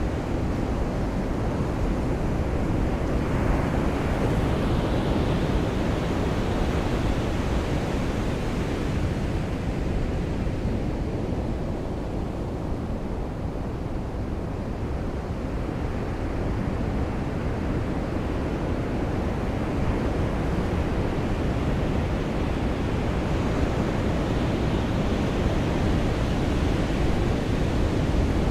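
Ocean surf washing onto a beach: a continuous rush of noise that swells slowly, cresting about four seconds in and again near the end.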